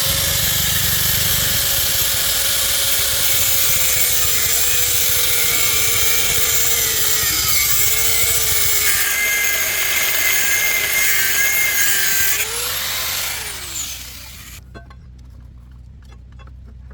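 Handheld power tool running under load, a loud steady grinding-cutting noise whose pitch wavers as it bites. About twelve seconds in it is released and winds down with a falling pitch.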